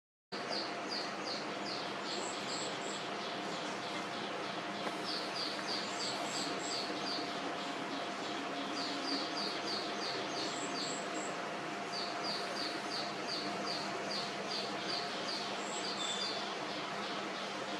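A bird calling in repeated phrases of short high chirps, about four a second, each phrase lasting a couple of seconds and starting again every few seconds, over a steady background hiss and a faint steady tone.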